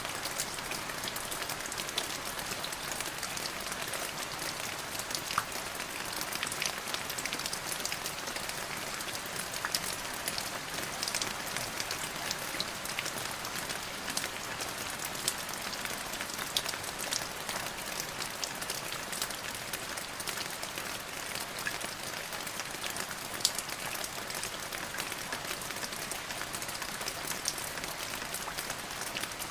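Steady rain falling on a surface, an even hiss peppered with many distinct drop ticks.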